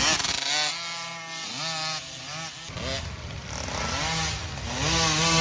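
Small 50cc two-stroke youth dirt bike engines revving, the pitch climbing and dropping again and again as the riders work the throttle through the woods course.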